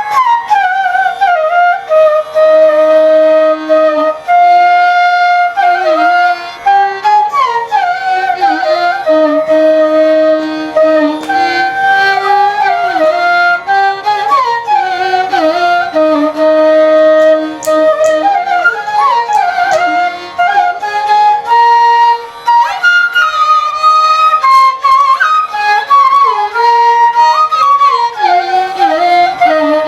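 Carnatic music: a flute playing a melody with sliding, bending ornaments between held notes, over a steady drone.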